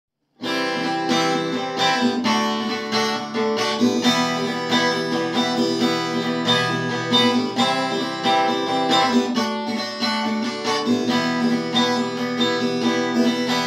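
Acoustic guitar strummed in a steady rhythm, playing the instrumental introduction of a song; it starts about half a second in.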